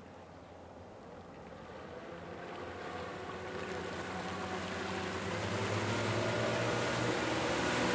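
Yamaha outboard motors of a Targa 30 motorboat running under way, the engine hum and a hiss of rushing water growing steadily louder through the whole stretch.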